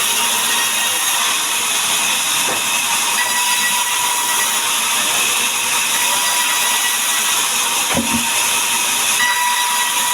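Power saw cutting mahogany timber, a steady loud hiss of blade through wood with a thin constant whine, and a short knock about eight seconds in.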